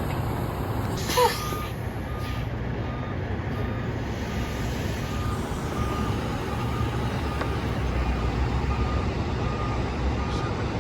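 Diesel tractor-trailer engine running steadily at low speed while its reversing beeper sounds, a bit more than once a second, during backing practice. A short hiss comes about a second in, just before the beeping starts.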